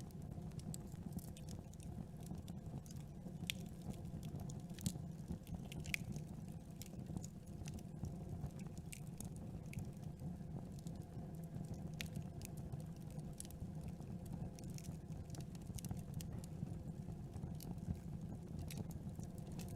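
Campfire burning, with wood crackling and popping at irregular moments over a low, steady noise of the flames.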